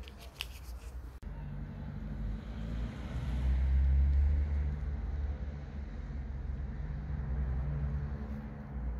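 A motor vehicle's engine running nearby: a steady low hum that swells louder for a second or two around the middle, then settles. A few sharp clicks come in the first second, before the hum starts.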